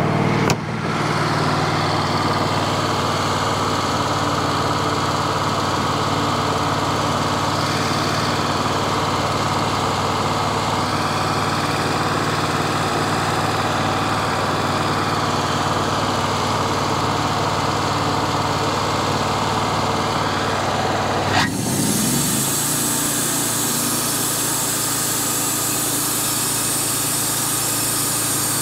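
Wood-Mizer portable band sawmill running steadily while its band blade cuts through a walnut log. The sound changes abruptly about 21 seconds in.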